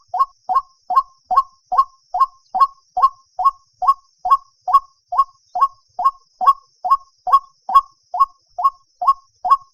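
White-breasted waterhen calling, a steady run of short, identical notes at about two to three a second.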